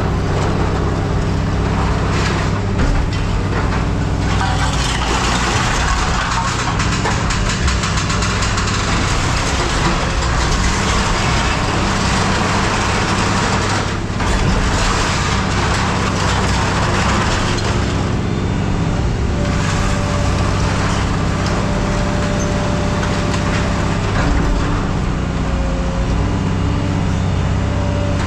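A heavy machine's engine running steadily. Several stretches of louder rushing, scraping noise lie over it, typical of scrap metal being pushed and moved.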